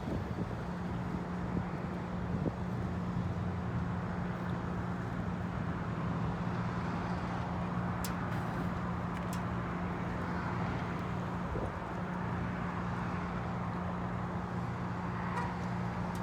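Steady low machinery hum over a broad background noise, with a couple of faint sharp clicks about halfway through.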